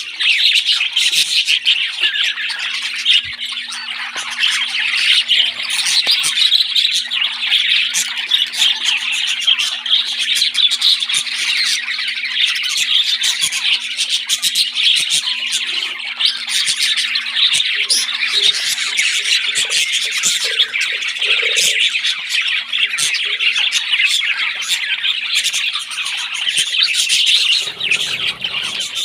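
Parrot chicks begging for food with a continuous, rapid squawking chatter.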